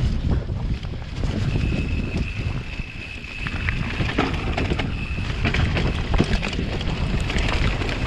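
Wind buffeting the action camera's microphone on a fast mountain bike descent, with the bike rattling and knocking over rough trail and a thin high whine that comes and goes.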